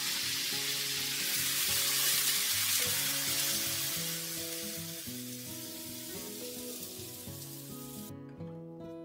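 Chicken pieces sizzling hard in hot oil in a wok. The hiss swells as water is poured in, then fades and cuts off abruptly near the end. Plucked guitar music plays underneath.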